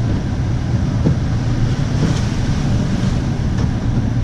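Vehicle driving through floodwater: the engine running under a steady rush and slosh of water around the tyres.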